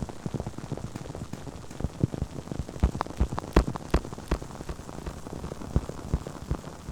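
Close-miked ASMR trigger sounds: a dense, irregular patter of small crackles and taps, a few louder ones around the middle.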